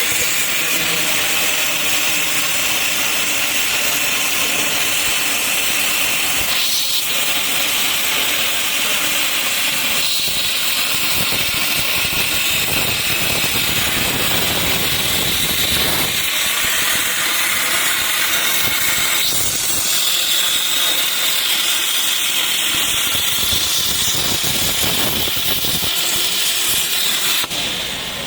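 Plasma cutter arc cutting steel pipe on a CNC pipe-cutting machine: a loud, steady hiss with a high whistling tone running through it. The level drops about a second before the end.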